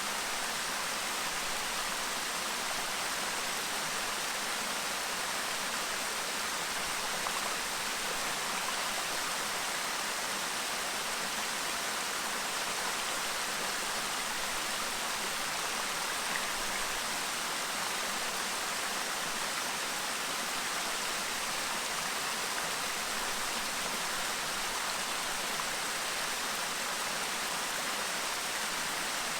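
Clear stream babbling: a steady, even rush of running water.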